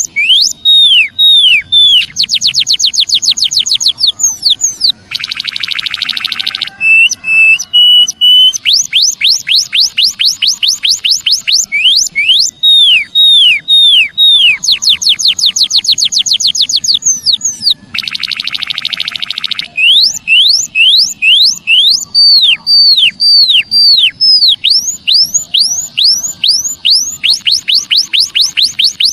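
White-headed munia (emprit kaji) calling: rapid runs of high, down-slurred whistled notes, broken twice by a harsh buzzy trill, once about five seconds in and again near eighteen seconds.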